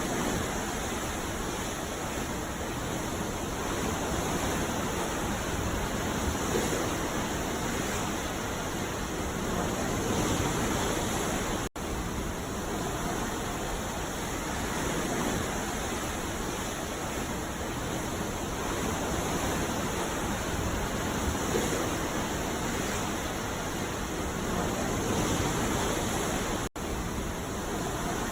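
Ocean surf washing steadily onto a beach, a continuous rushing noise with gentle swells, broken by two momentary dropouts in the audio.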